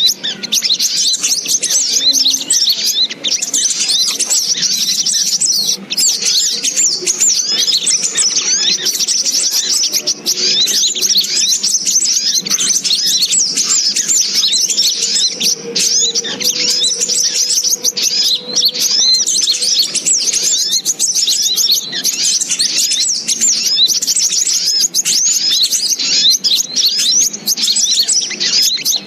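Little spiderhunter (sogok ontong) lure recording: dense, continuous high-pitched chirping and twittering with no breaks.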